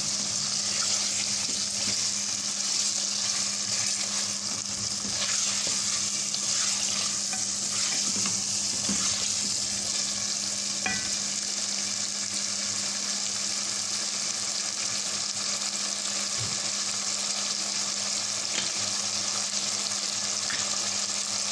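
Chicken pieces sizzling in hot oil and spice paste in a metal pot, a steady hiss, while a silicone spatula stirs them now and then: the bhuna stage, where the chicken is fried in the masala on a medium flame.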